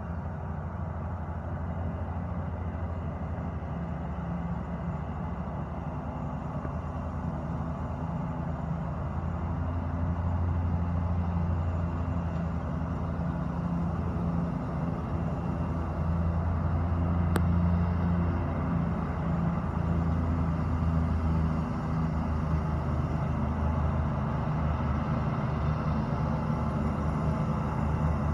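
Goldoni 96 hp orchard tractor's diesel engine running steadily, getting louder over the first ten seconds and then holding, with slight wavering in its hum.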